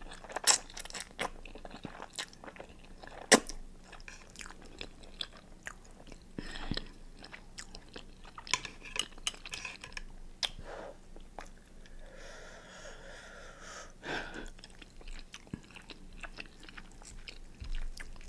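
Close-miked person eating: irregular wet chewing, biting and crunching with many sharp clicks. About two-thirds of the way through there is one longer sound lasting about two seconds.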